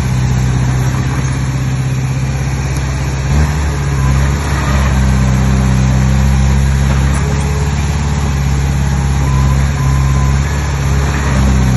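Heavy diesel engine of earthmoving machinery running steadily; its note shifts about three and a half seconds in, then holds.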